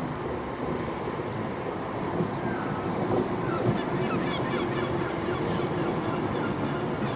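Passenger train approaching through the station: a steady rumble that grows a little louder, with a low hum and faint short squeals from the wheels or brakes about two seconds in.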